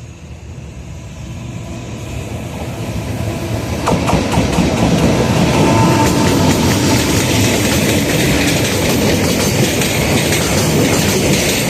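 JR Freight EF210 electric locomotive hauling a freight train through the station at speed. It grows louder over the first four seconds as it approaches, then the wagons run past with a steady rumble and wheel clatter.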